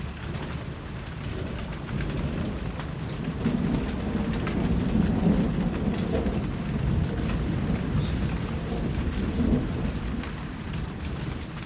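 Steady rainfall with scattered drop ticks. A low rumble of distant thunder swells about three seconds in, peaks midway and fades toward the end.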